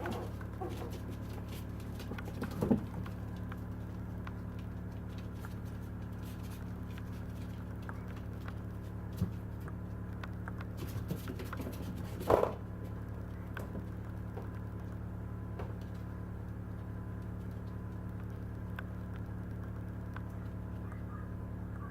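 Steady electrical hum under faint clicks and scuffs of Maltese puppies moving about, with two louder brief knocks, about three seconds and about twelve seconds in.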